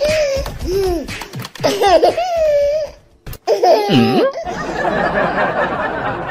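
A person laughing hard in repeated high-pitched bursts, breaking off briefly about three seconds in, laughing again, then giving way to a steady noise near the end.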